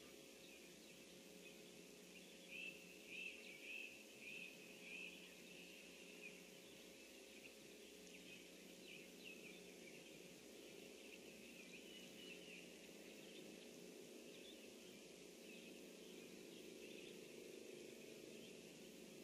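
Faint outdoor ambience with distant songbird calls: a short run of repeated high notes a few seconds in, then scattered faint chirps.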